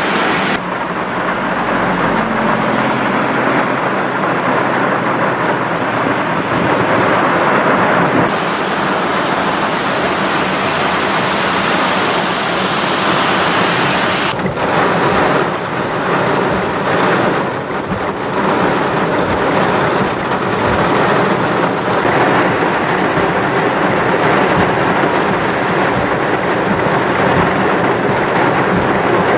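Heavy thunderstorm downpour: rain pouring steadily, with a low rumble of thunder about two seconds in.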